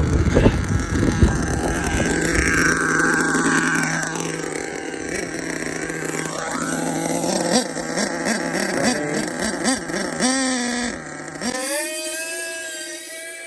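HPI Savage X 4.6 nitro RC monster truck engine running and revving up and down as the truck is driven. There is heavy wind rumble on the microphone at the start. Near the end the note thins out as it carries on.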